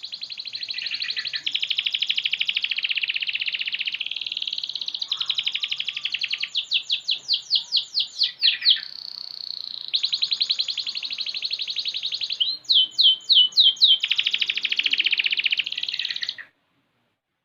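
Six-month-old domestic canary singing one long unbroken song of fast trills and rapid repeated notes, with runs of sweeping notes about seven seconds in and again near thirteen seconds. The song cuts off suddenly near the end.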